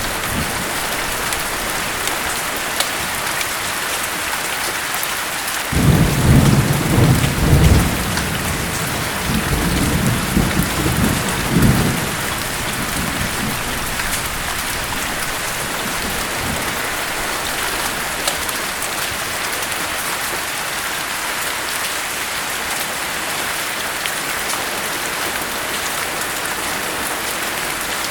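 Steady rain with a thunderclap rumbling in suddenly about six seconds in, loudest for two seconds, then rolling on in weaker swells and dying away about twelve seconds in.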